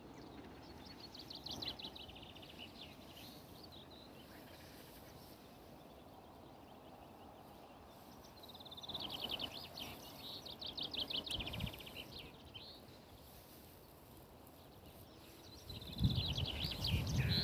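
A songbird singing in three bouts of rapid, high-pitched trilled phrases over a steady faint background hiss. A louder low rumbling noise comes in near the end.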